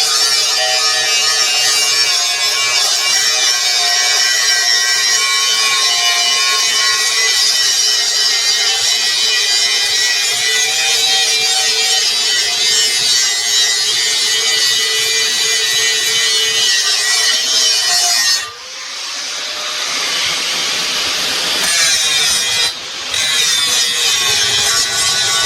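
A handheld power grinder working rusted steel pipe, a steady whine over a hiss; it drops off sharply about three quarters of the way through and then picks back up.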